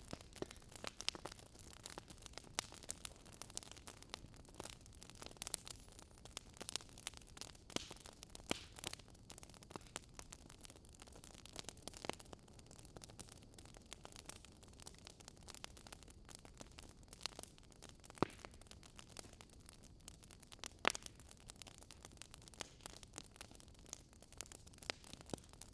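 Wood fire crackling: irregular sharp pops and snaps over a faint, steady hiss.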